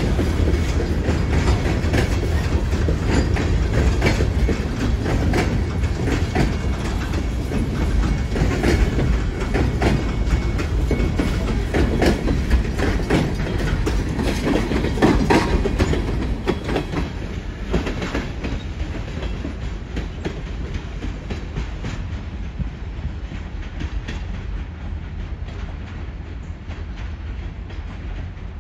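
Freight train of covered hoppers and boxcars rolling past at close range: a steady low rumble with the clickety-clack of wheels knocking over rail joints. About two-thirds of the way through the sound grows quieter and the knocks thin out as the last cars move away.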